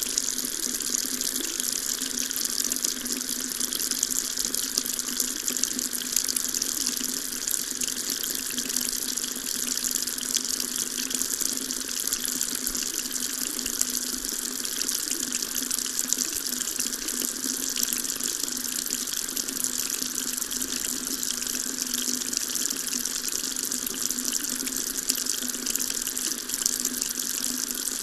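Water tap running steadily, a continuous stream splashing into a sink with an even, hissing rush.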